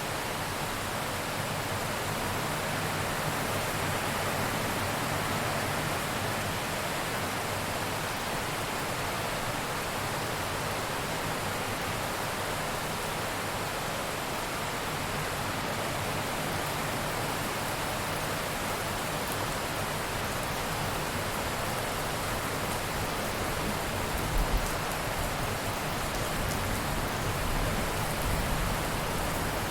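Steady heavy rain, an even dense hiss of falling water. Near the end comes a brief low rumble, typical of distant thunder.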